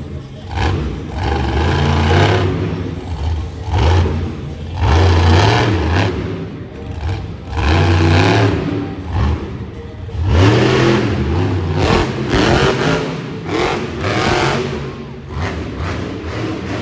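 Mega-Wrex monster truck's engine revving hard in repeated surges every couple of seconds, its pitch rising and falling with the throttle.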